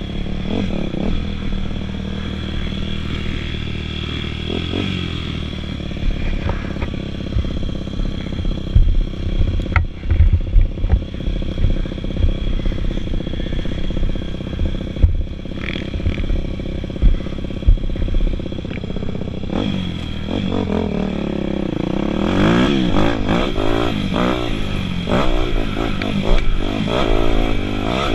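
Dirt bike engines running on a motocross track, with a run of low knocks through the middle. Near the end the engine pitch rises and falls repeatedly as the bikes rev through the gears.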